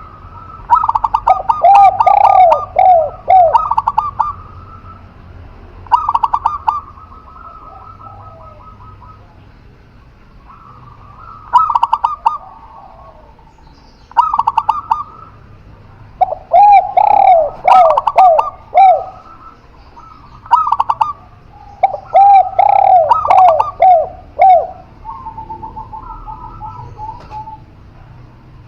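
Spotted dove and zebra dove cooing, in about a dozen phrases of quick repeated notes with short pauses between them.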